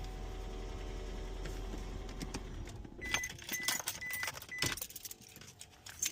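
Second-generation Toyota Prius with the heater on, making a steady hum with several steady tones: the loud heater-related noise that is not the blower. The hum cuts off suddenly about three seconds in, followed by clicks and rattles and four short high beeps about two a second.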